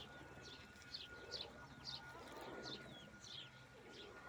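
Faint, repeated short high chirps from small birds, about two a second, each one sweeping downward.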